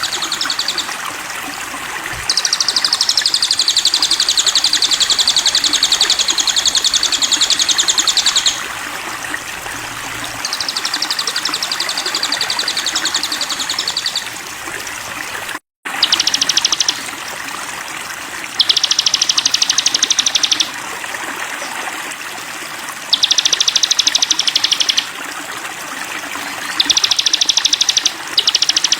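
Sogon songbird singing long, very rapid high trills, about seven of them, each one to six seconds long with short gaps between, over the steady sound of running water. The sound cuts out for a moment about halfway through.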